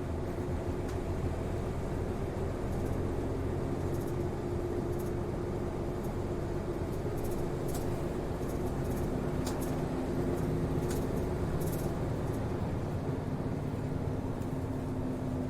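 City route bus heard from inside the cabin while running: a steady engine and drivetrain hum with light rattles and ticks from the body. The engine note steps down in pitch about ten seconds in.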